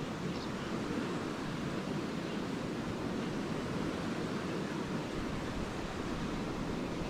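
Lake waves washing steadily onto a beach, a continuous rushing wash without distinct breaks, with one faint short high chirp near the start.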